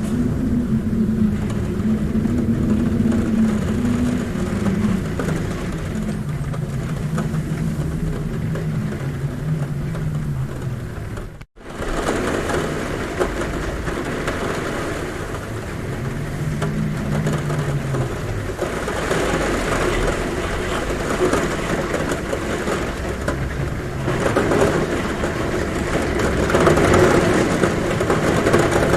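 Heavy rain drumming steadily on a roof, with a low wavering hum of wind at a window that sinks in pitch and comes back. The sound cuts out for an instant about eleven seconds in.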